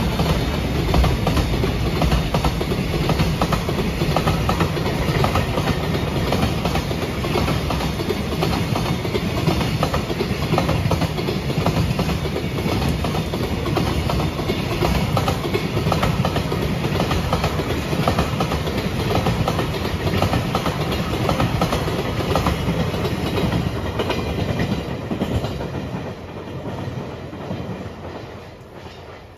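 Freight train of container flat wagons rolling past on the rails, steady and loud, then fading away over the last few seconds as the end of the train goes by.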